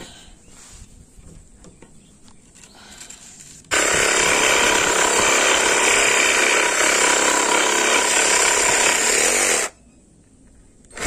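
Cordless reciprocating saw cutting a piece of used wood. It starts about a third of the way in after some light handling knocks, runs steadily for about six seconds, stops suddenly, and starts again at the very end.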